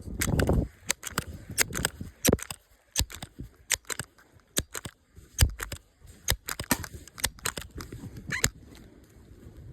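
A string of irregular sharp crunches and clicks, about two or three a second, typical of footsteps crunching through brush as a hunter moves, with a short burst of low rumbling noise at the very start.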